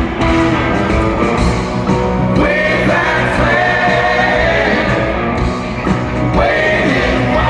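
Live rock band playing, with sung vocals over electric guitar, bass and drums; the singer holds long, wavering notes twice.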